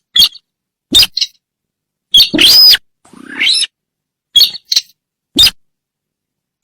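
Sintar bird calls from a hunting lure recording: about seven short, sharp calls at irregular spacing, with one longer arching call about two seconds in.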